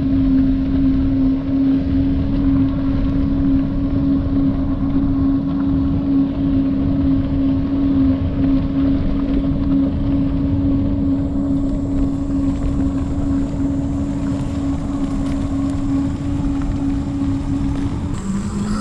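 Wind rushing over the microphone and tyre rumble from a bicycle being ridden along a trail, with a steady hum held at one pitch that gives way near the end to a slightly lower tone that slowly rises.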